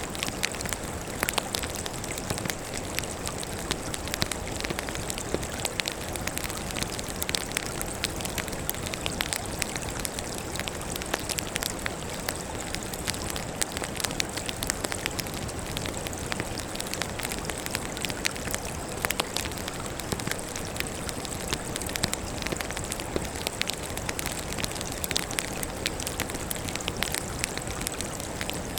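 Wood fire burning with steady crackling: many sharp, irregular pops and snaps of burning logs over a constant hiss.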